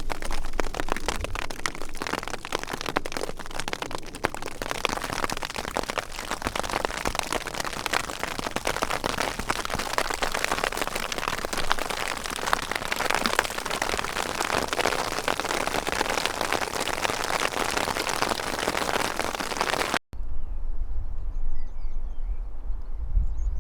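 Hailstones pelting down in a dense, steady clatter of countless small impacts. The clatter cuts off suddenly near the end, giving way to a low wind rumble on the microphone with a few faint high chirps.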